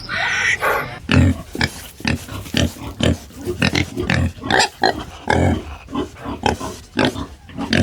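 An animal making a rapid series of short, low calls, several a second, starting about a second in.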